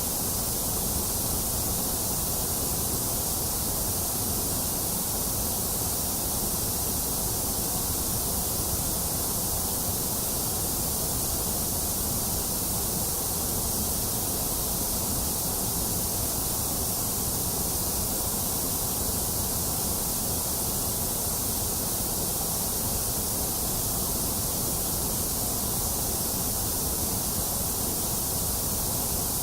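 Steady white noise: a constant, even hiss that never changes in level, bright in the treble.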